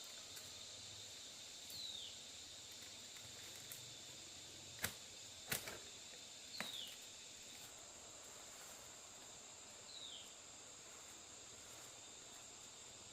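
A steady high-pitched drone of insects in the background. Three short falling whistle-like calls come about four seconds apart, and two sharp knocks sound close together about five seconds in.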